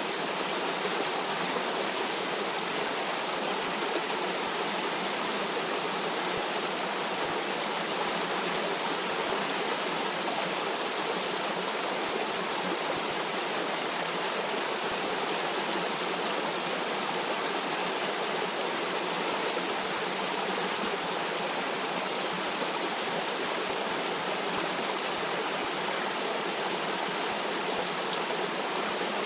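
Steady rush of a flowing stream, an even unbroken wash of water noise.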